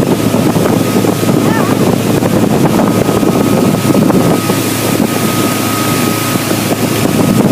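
Motorboat running steadily at speed, with a constant thin whine above the engine and wind buffeting the microphone.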